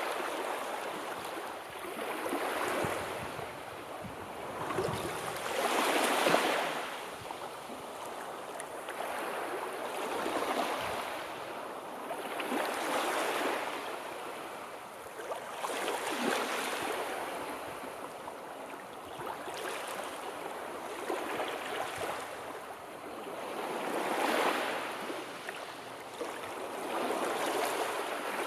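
Sea waves washing in and drawing back, the surf swelling and fading every few seconds.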